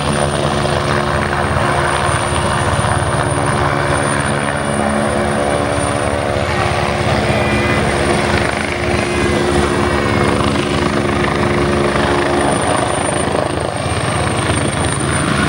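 Helicopter hovering, its rotor and engine running in a steady, continuous hum with a thin high whine over it.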